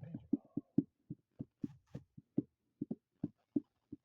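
A rhythmic run of short, dull, low thumps, about three to four a second.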